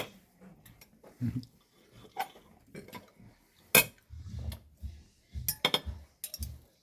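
Cutlery clinking against plates as breakfast is cut up and served: a string of sharp, irregular clinks, the loudest about four seconds in, with some dull low knocks on the table.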